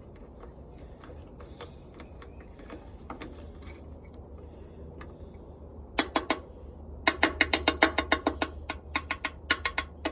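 Washing-machine part knocking and rattling as it is shaken loose by hand: a few faint clicks, a quick cluster of sharp metallic strikes about six seconds in, then a fast run of knocks with a short ring, about five a second.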